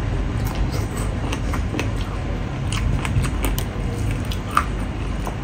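Close-up eating sounds: a mouthful of rice and pork being chewed, with many short wet smacks and clicks, and fingers working rice on a steel plate. A steady low rumble runs underneath.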